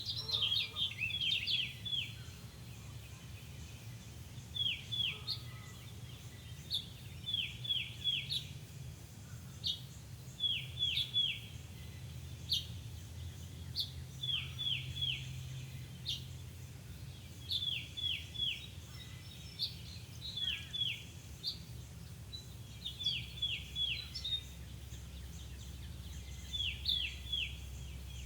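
Songbird singing a short phrase of two to four quick, high, down-slurred notes, repeated every few seconds, over a low steady rumble.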